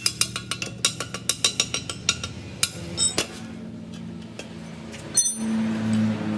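Hammer striking metal in quick, ringing blows, about five a second for the first two seconds, then a few scattered strikes over a low steady hum, with a sharp clank about five seconds in.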